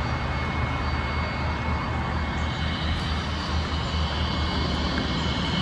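A steady low engine rumble, with a faint high whine joining about halfway through.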